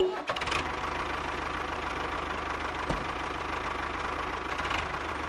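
Small motor of a DIY mini tractor model running steadily with a fast gear rattle, and one sharp click about three seconds in.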